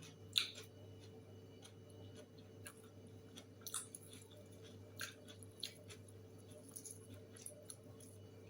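Faint eating sounds: a scattering of soft clicks and small crunches over a low steady hum.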